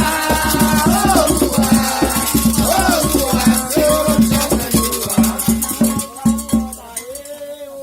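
Candomblé ritual music: hand drums beaten in a fast rhythm with a shaken rattle, and voices singing over them. The drumming stops about six seconds in, leaving the voices.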